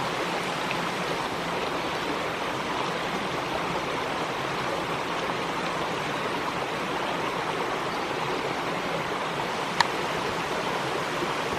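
Woodland stream rushing steadily over rocks, an even water noise throughout, with one sharp click near the end.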